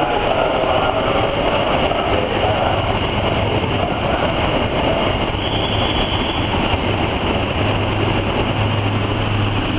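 Passenger train coaches passing close by at speed: a steady, loud rumble and rush of wheels running on the rails.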